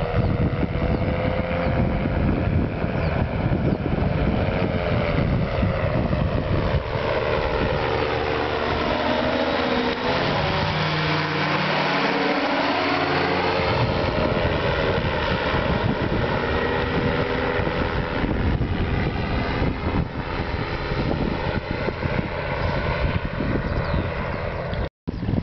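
Ultralight aircraft's engine and propeller running in flight, its pitch dipping and then rising again around the middle, with wind buffeting the microphone. The sound drops out for a moment near the end.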